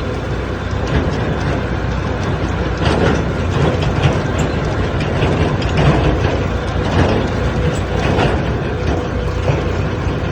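Tractor diesel engine running under way, a steady low rumble with loose metal parts rattling and clattering irregularly over it.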